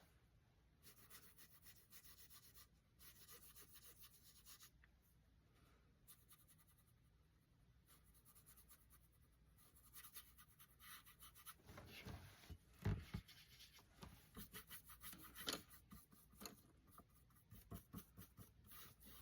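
Faint swishing and rubbing of a paintbrush stroking across canvas, spreading thin watered-down acrylic paint. The strokes come thicker and faster after about twelve seconds, with a couple of light knocks.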